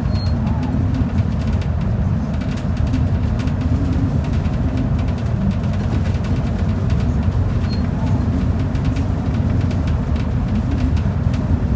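Steady low rumble inside a transit bus cruising on the road: engine and tyre noise with no let-up. Two faint, very short high chirps, one right at the start and one about two-thirds of the way through.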